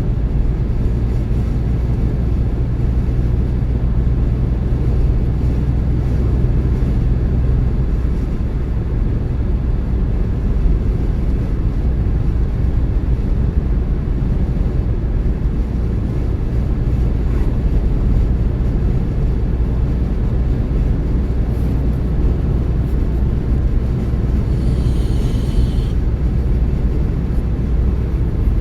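Car being driven: a steady low rumble of engine and tyre noise, with a brief high-pitched sound near the end.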